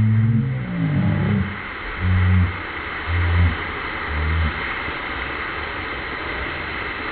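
Quarter-speed slowed-down sound of a microwave oven exploding and burning: a steady deep rushing noise, with several short, low moaning tones in the first few seconds.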